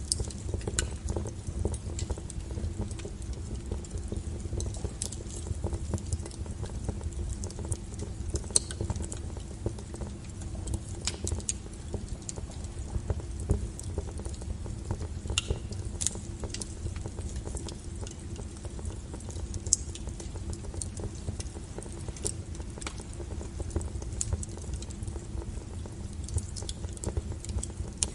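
Wood fire burning with a steady low rumble and irregular crackling, scattered sharp pops of burning firewood throughout.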